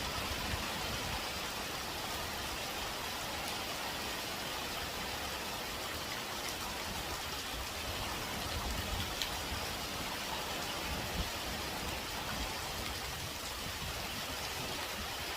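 Heavy typhoon rain pouring steadily, with a low, gusting rumble of strong wind underneath and a few sharper drop hits.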